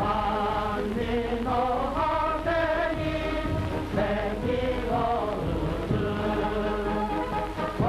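Film soundtrack music: a choir singing together, its held notes changing every half second or so.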